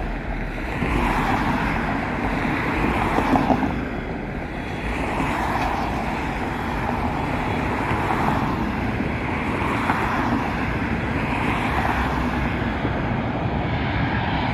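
Road traffic: cars passing in steady road noise that swells and eases every couple of seconds.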